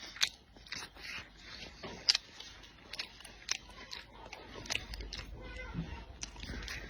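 Close-up chewing and biting on braised duck leg: irregular sharp, wet clicks and short crunching, smacking bursts of mouth noise.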